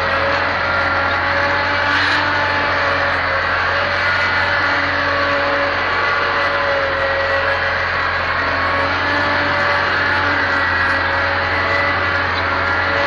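Massey Ferguson 275 tractor's diesel engine running steadily while pulling plows. Its drone holds an even pitch that wavers slightly.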